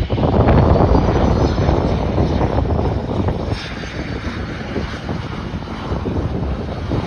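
Airliner engines running, mixed with buffeting wind noise on the microphone. It is loudest in the first half and eases off about halfway through.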